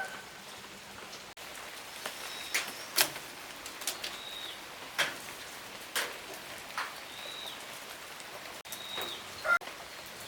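Steady outdoor hiss with scattered sharp ticks, and a bird giving three short, high chirps that drop in pitch at the end.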